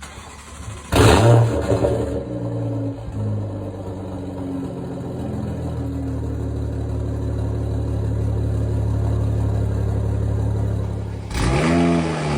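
Toyota Supra engine and exhaust starting about a second in with a loud flare, settling into a steady idle, then a short rev that rises and falls back near the end.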